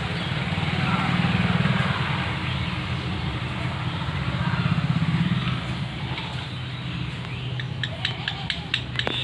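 A motor vehicle engine running close by, growing louder twice before settling to a steady hum, with a few short sharp chirps near the end.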